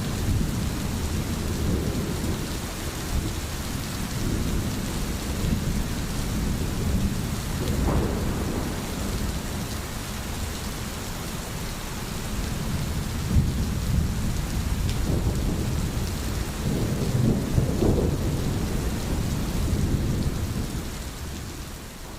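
Steady rain falling during a thunderstorm, with low rolling thunder rumbling underneath that swells now and then.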